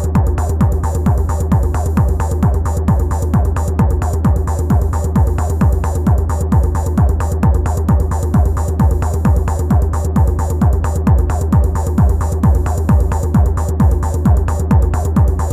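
Electronic techno played live on an Elektron Analog Rytm drum machine: an even, repeating kick drum over a held low bass drone and mid-range synth tones.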